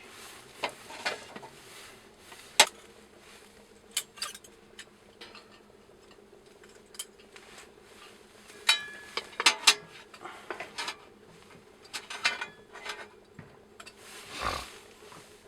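Cookware and utensils clinking and knocking while a meal is prepared: scattered sharp taps and clinks, a quieter stretch in the middle, then a busier run of clinks and a fuller clatter near the end.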